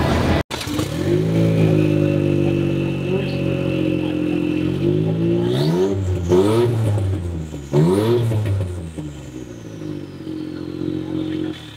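Ford Fiesta rally car's engine idling, then revved up and let fall back three times in quick succession a little past the middle, before settling back to a quieter idle.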